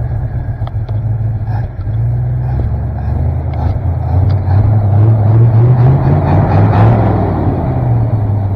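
C50 dump truck's engine running, revved up from about four seconds in and easing back down near the end.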